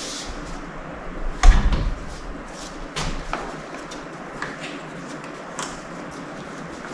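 Scattered clinks and knocks of hand tools and parts on a Powerglide transmission being dismantled, with one louder knock about a second and a half in.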